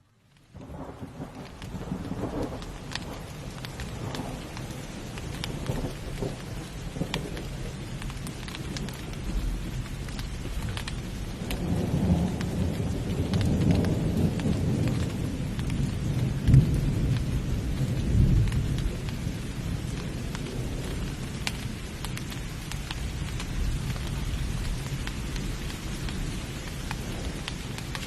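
Heavy rain falling steadily, with drops pattering on surfaces, and rolling thunder that swells in the middle, its loudest cracks coming about two-thirds of the way through.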